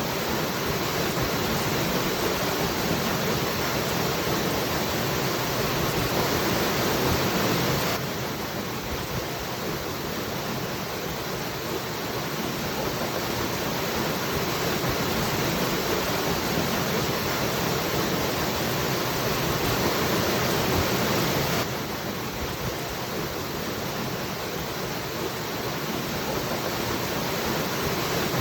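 Waterfall: a steady rush of falling water, with the level dropping abruptly about 8 seconds and about 22 seconds in.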